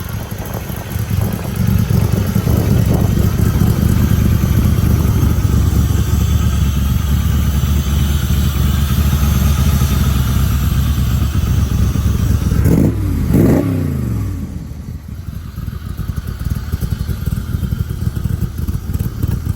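A loud vehicle engine runs close by with a deep, steady rumble. About 13 seconds in its pitch swings sharply up and down, then the sound drops away.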